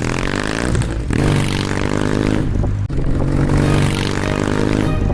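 2024 Kawasaki W800's air-cooled parallel-twin engine running through a W650 POSH aftermarket muffler, held at raised revs. The revs fall at first, pick up about a second in, dip briefly about two and a half seconds in and rise again.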